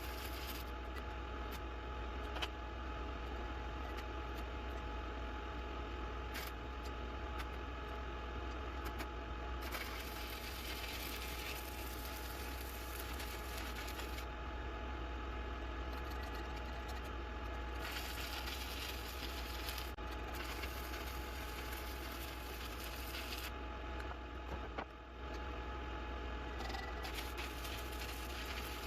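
Sped-up workshop audio of stick-welding work on a steel frame: a steady scratchy rasp over a constant low hum, its texture changing every few seconds as the work switches.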